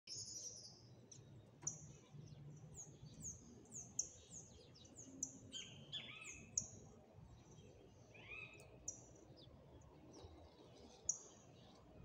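Small birds chirping: a busy run of short, high, downward-sliding chirps, with a few lower, fuller chirps mixed in around the middle, thinning out towards the end.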